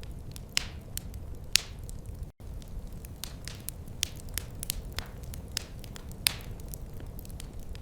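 Wood fire crackling, with sharp irregular pops over a steady low rumble. The sound cuts out for an instant a little over two seconds in.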